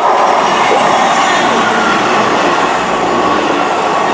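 Class 158 diesel multiple unit passing through the station at speed: a loud, steady rush of wheel, rail and engine noise.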